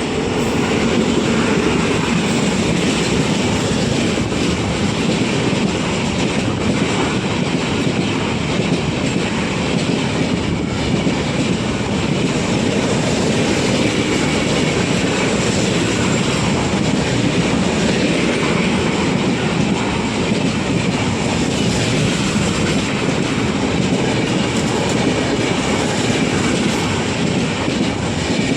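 Netravati Express running through the station without stopping: a loud, steady rumble and clatter of coach wheels over the rails for the whole time.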